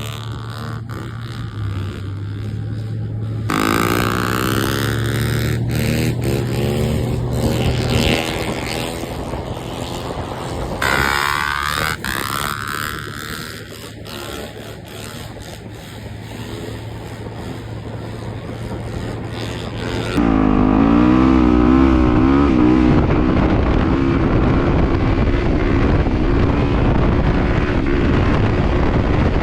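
Dirt bike engines revving during wheelies, pitch rising and falling with the throttle, in several clips spliced together with abrupt cuts about 3.5, 11 and 20 seconds in.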